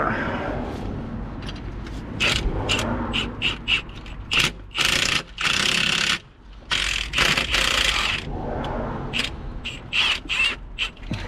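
Hand ratchet wrench clicking in repeated runs, some short and a few lasting about a second, as bolts are worked during the fitting of a new clutch and flywheel.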